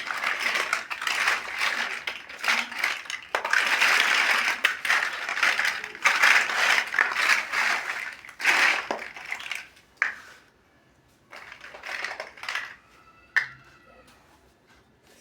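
Plastic building bricks clattering and rattling together in a dense jumble, thinning out to a few separate clicks after about ten seconds.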